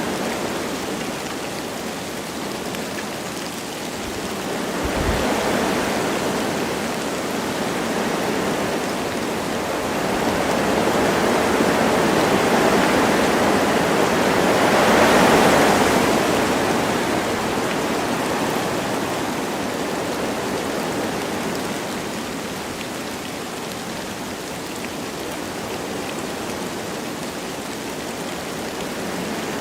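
Wind blowing through forest trees with light rain, a steady rushing that swells into a gust peaking about halfway through, then slowly dies back.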